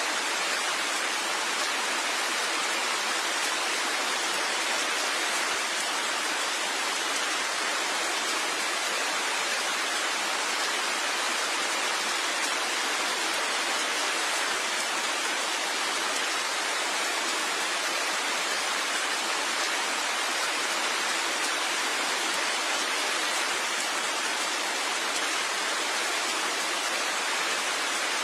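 Steady heavy rain, an even hiss that holds at one level, with no single drops or thunder standing out.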